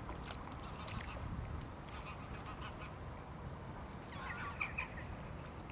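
Waterfowl calling outdoors over a steady low rumble, with a short run of calls about four seconds in.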